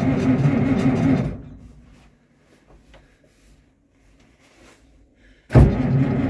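Farmall 1066 tractor engine noise dies away a little over a second in, leaving about four seconds of near silence with a few faint clicks. The engine noise then comes back abruptly and loudly near the end, as in repeated cranking or start attempts on a cold engine.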